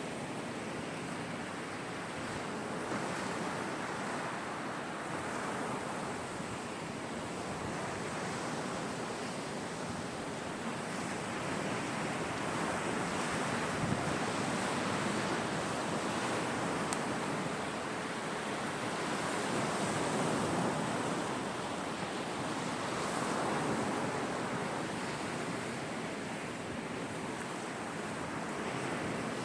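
Sea waves breaking and washing on a shore, a continuous surf that swells louder a few times and then eases off.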